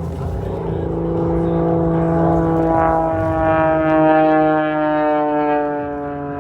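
Propeller aerobatic airplane's engine and propeller making a low pass, the pitch sliding steadily downward as it goes by. It is loudest about four seconds in, then fades a little.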